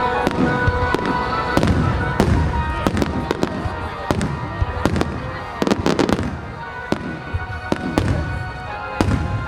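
Aerial firework shells bursting in a rapid series of sharp bangs, thickest about six seconds in, over music with sustained tones.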